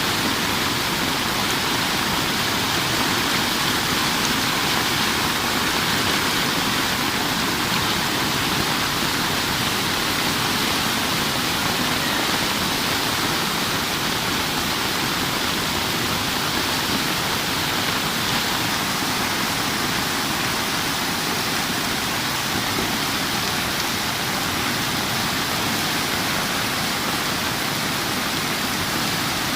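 Heavy, torrential rain pouring down in a steady, even hiss.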